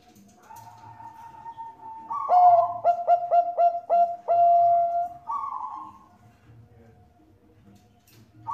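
Zebra dove (Bangkok-strain perkutut) singing: a soft coo, then a rapid run of about five short cooing notes ending in one longer held note about halfway through, followed by a short rough note.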